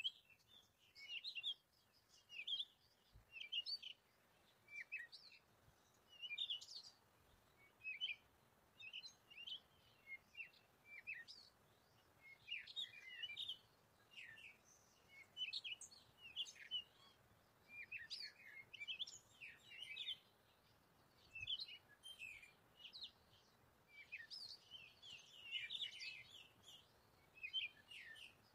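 Birds chirping: short high calls coming in quick bunches every second or two.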